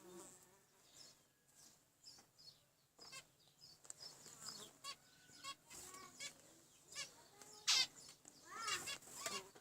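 Zebra finches calling: many short, arched calls repeated at irregular intervals, louder and closer together near the end.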